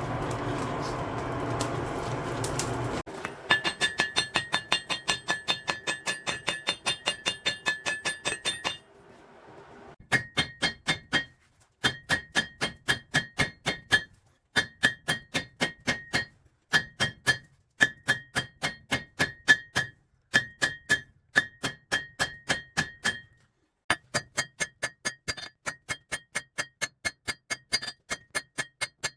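Hammer blows on an anvil while forging a sickle: runs of fast, even strikes, about three a second, each with a ringing ping, broken by short pauses. Before the hammering starts, a steady rushing noise with a low hum lasts about three seconds.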